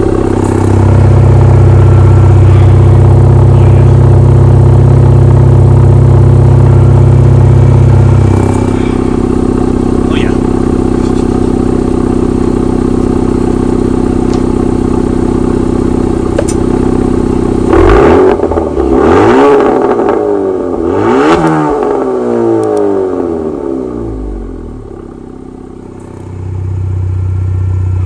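2020 Honda Accord's 2.0-litre turbocharged four-cylinder, breathing through a Borla exhaust fitted with SPELAB exhaust cutouts, idling with a deep low drone that drops away about eight seconds in. About two-thirds of the way through it is revved several times in quick succession, then settles back to idle, and the deep drone returns near the end.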